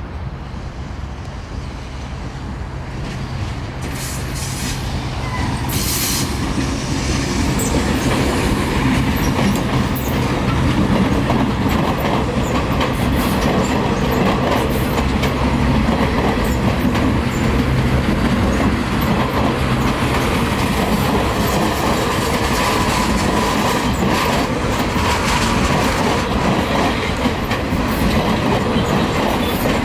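Electric commuter train (yellow-and-grey Metrorail multiple unit) approaching and passing close by. The wheels clatter over the rail joints, growing louder over the first several seconds and then holding steady as the coaches run past. A steady low hum runs under the clatter and fades out about two-thirds of the way through.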